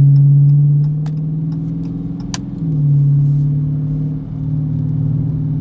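2016 Dodge Challenger R/T's 5.7-litre HEMI V8 pulling the car up to speed, heard from inside the cabin as a low, steady engine drone. It eases off about a second in and builds again about halfway through, with a single sharp click in between.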